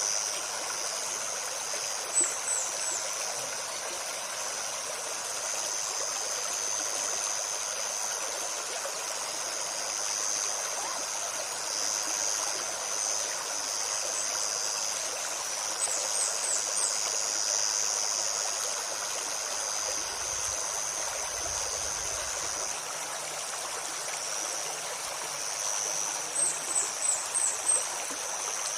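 Shallow forest stream babbling steadily over stones. A high steady insect buzz runs underneath. Brief high bird chirps come about two seconds in, again around the middle, and in a quick series near the end.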